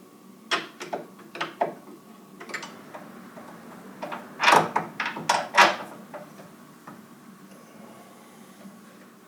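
Metal tools and parts being handled during the repair: a few sharp clicks and knocks, then a quick cluster of louder clanks and scrapes about four to six seconds in.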